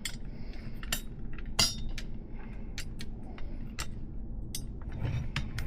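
Irregular small metal clicks and clinks as a cone nut is worked onto a 3/8-inch solid BMX hub axle, with one louder clink about one and a half seconds in.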